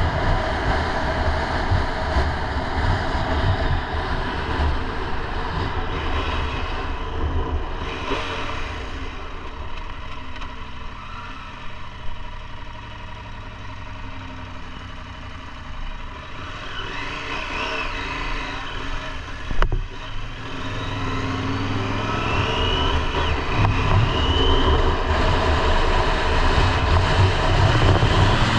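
KTM 890 Adventure R's parallel-twin engine running under way, mixed with wind and road noise. It eases off in the middle, then climbs in pitch and grows louder as the bike accelerates near the end, with one sharp click about two-thirds through.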